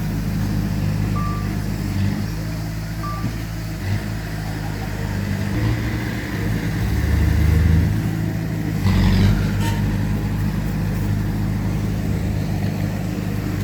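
Heavy diesel earthmoving machinery running steadily, its engine note swelling under load a few times. Two short high beeps sound about a second and three seconds in.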